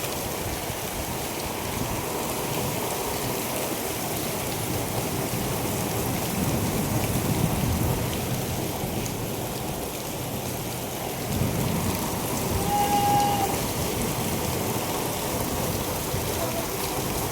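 Heavy rain falling steadily, with a low rumble swelling twice, about six seconds in and again about twelve seconds in.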